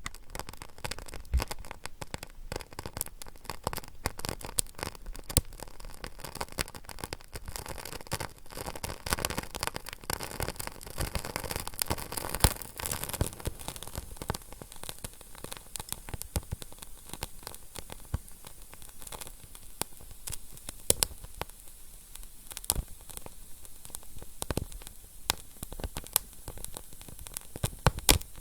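A fire crackling: a steady hiss packed with rapid small snaps, with a louder pop every few seconds.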